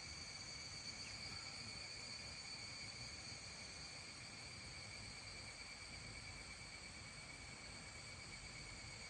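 Insects trilling in a steady, unbroken chorus with a high, even pitch, over a faint low rumble of outdoor background noise.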